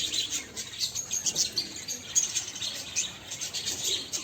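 A flock of small caged birds chirping and twittering together, a dense overlapping chorus of short high chirps with no pause.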